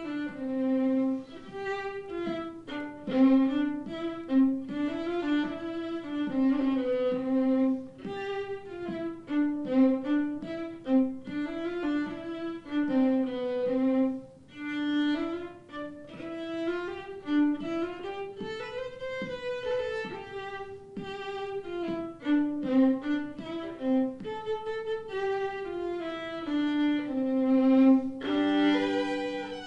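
Violin playing a melody, one note after another, with a fuller, louder passage near the end.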